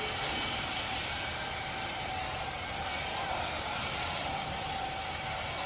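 Truck-mounted carpet extractor's wand at work: a steady, even rushing hiss of vacuum suction and hot-water spray.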